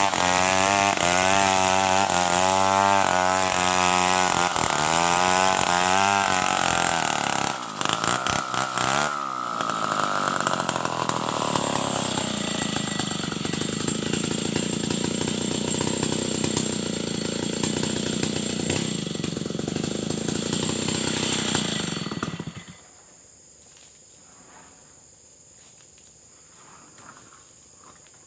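Stihl 070 two-stroke chainsaw running at high revs with its pitch wavering as it saws timber. Around 9 seconds in the revs fall away, then it runs steadily until it stops about 22 seconds in. Faint steady insect chirping is left behind.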